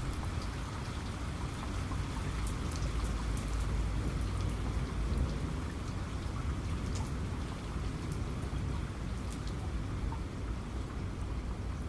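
Heavy rain falling steadily, with individual drops ticking over an even hiss and a low rumble of distant thunder that swells slightly in the middle.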